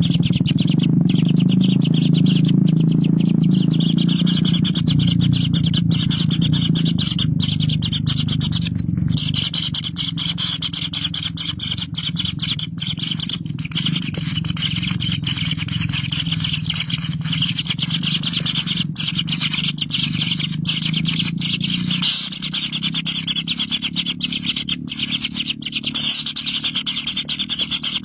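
Birds chirping continuously in a dense, rapid, high chorus, over a low steady hum.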